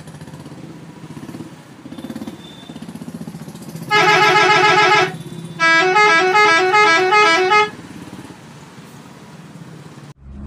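Electronic toy horn sounds: about four seconds in, one buzzy horn blast lasting about a second, then after a short pause a two-tone horn alternating quickly between two notes for about two seconds, over a faint low hum.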